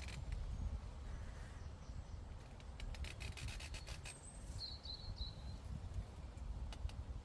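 Meadow ambience: a steady low wind rumble, a quick run of clicks and rustles about three seconds in, and a short, high bird call just after the middle.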